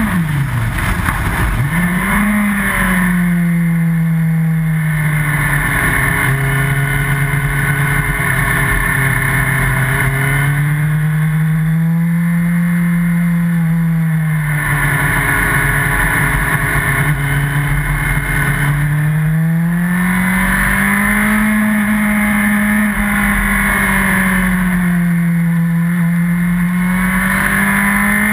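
Yamaha R1 sportbike engine at speed on track, heard from an onboard camera over heavy wind rush. Its note dips sharply about a second in, climbs back, then rises and falls slowly with the throttle through corners.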